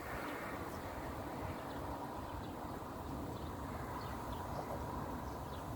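Steady outdoor background noise, with a faint thin tone and a few light ticks, and no distinct event.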